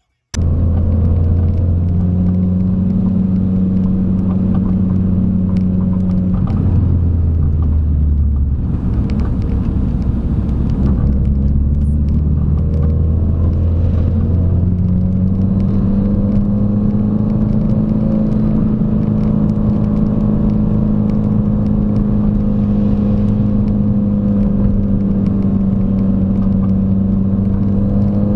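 Car engine and exhaust droning steadily under way, heard from inside the car. The pitch drops about seven seconds in, then climbs from about fifteen seconds in and holds a little higher.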